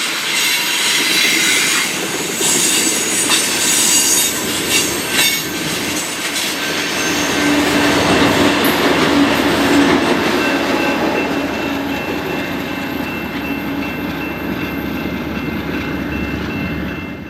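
Freight train rolling past, its steel wheels squealing in thin high tones over a steady rumble of the cars, with a few sharp clanks in the first five seconds.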